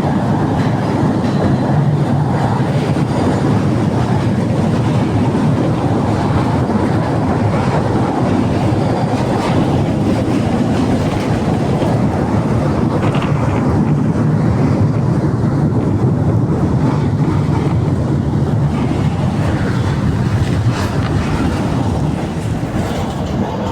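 Tatra tram cars coupled in a pair running along the track: a steady rumble of wheels on rail and running gear, heard from on board, easing slightly near the end.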